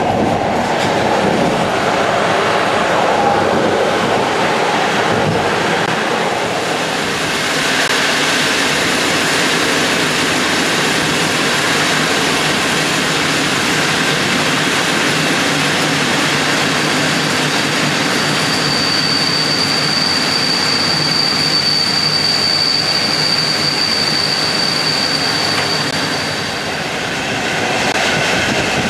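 Passenger train running on the rails with a steady rumble and rush of noise. About two-thirds of the way through, a high-pitched wheel squeal rings out steadily for several seconds, then fades.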